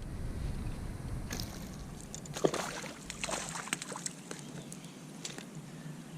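Water sloshing against a fishing kayak, with scattered light knocks and clicks of handling aboard.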